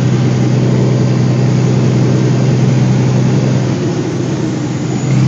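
Heavy truck's diesel engine pulling steadily under load, heard from inside the cab: a steady low drone that eases off briefly about four seconds in, then comes back up.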